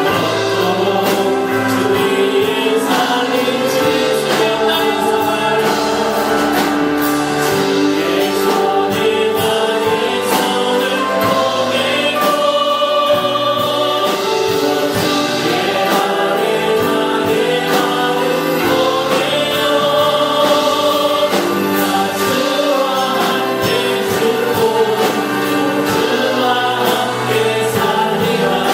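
Choir singing a Christian worship song with instrumental accompaniment, steady and full throughout.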